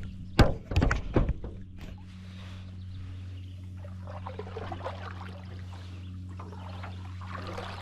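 Canoe paddle knocking against the hull about four times in the first second and a half, then quiet paddling with water trickling off the blade. A steady low hum runs underneath.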